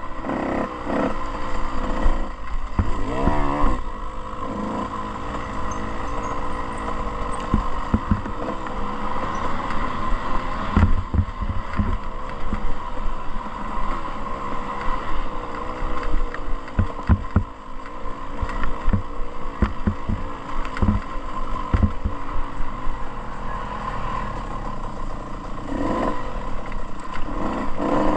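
Dirt bike engine running and revving on a motocross track, the pitch rising and falling with the throttle, with scattered thumps from riding over bumps.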